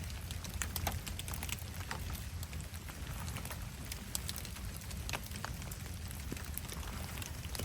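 Rain falling with a big campfire crackling: scattered sharp pops and ticks over a steady low rumble.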